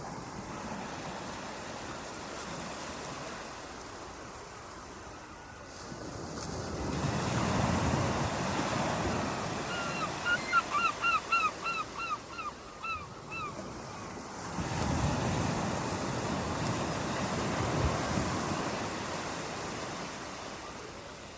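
Ocean surf: waves washing in twice as slow swelling rushes over a steady hiss. Midway, a quick string of about ten short, high, repeated calls cuts through the surf.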